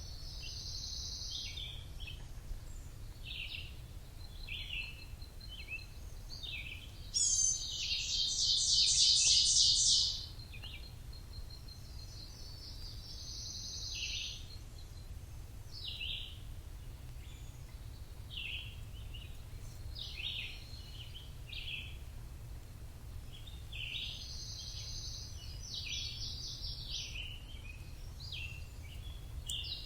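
Wild birds chirping and calling in a forest, short high notes scattered throughout, with one louder rapid trill of quickly repeated notes about seven seconds in that lasts some three seconds. A steady low rumble runs underneath.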